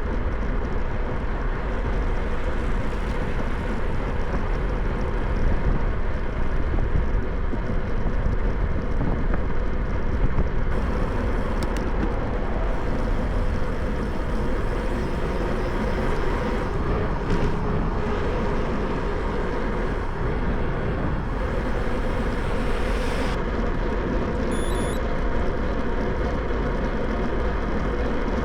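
Steady rush of wind and road rumble on the microphone of a camera riding on a moving bicycle.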